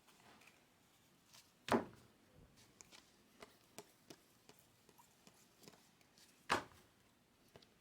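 Trading cards and packs being handled on a table: faint rustling and small clicks, with two sharper taps about two seconds in and again about six and a half seconds in.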